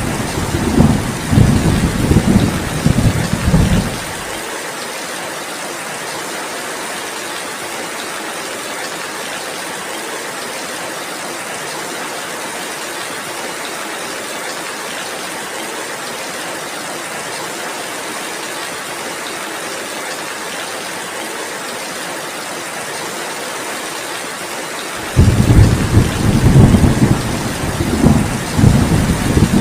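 Heavy rain falling steadily as an even hiss, with low rolling thunder that fades out abruptly about four seconds in and rumbles again near the end.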